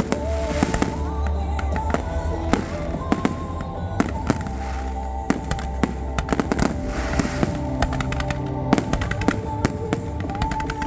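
Fireworks display: a rapid, irregular run of sharp bangs and crackling bursts throughout, with a song with a steady bass playing alongside.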